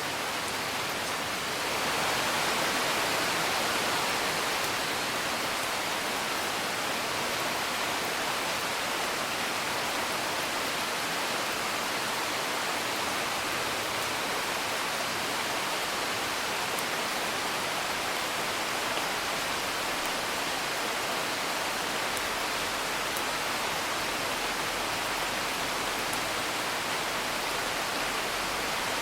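Steady rain, with faint crackles from a wood fire. The rain swells slightly about two seconds in.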